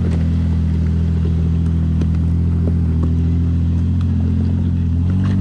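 An engine running steadily at low speed, a deep even drone that shifts slightly in pitch near the end, with a few faint clicks.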